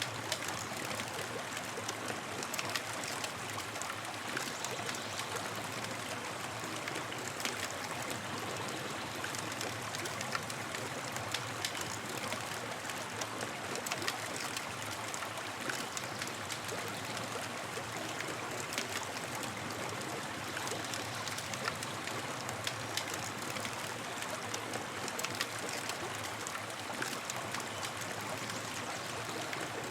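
Campfire crackling, with frequent small sharp pops over a steady rushing hiss.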